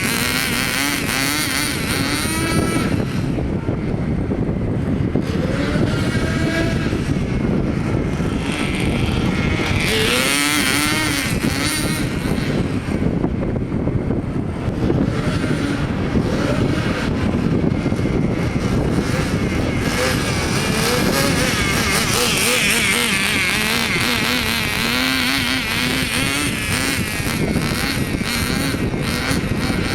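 Small .09 glow engine of a 1/10 Kyosho Mini Cooper S RC car running during break-in, its pitch rising and falling repeatedly with the throttle.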